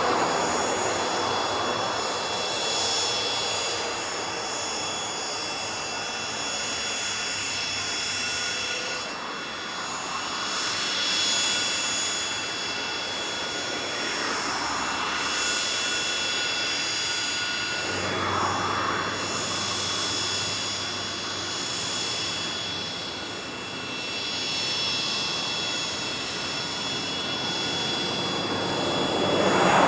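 Cessna 750 Citation X business jet's twin Rolls-Royce AE 3007 turbofans running with a steady high-pitched whine over a rushing noise that swells and fades.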